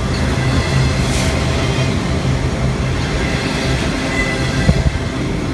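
Freight train of autorack cars rolling past close by: a steady rumble of steel wheels on the rails, with one sharp knock near the end.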